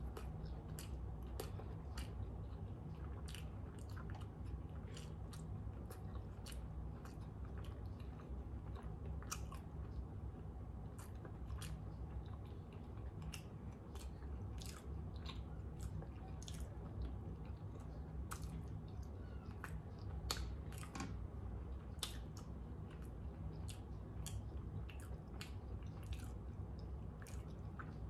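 A person chewing and biting through a hot dog in a soft bun, with many small clicks, over a steady low hum.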